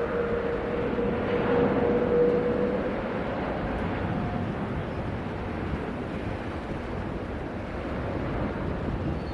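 Airbus A350 jet engines running in a steady roar, with a held whine that fades out about three seconds in.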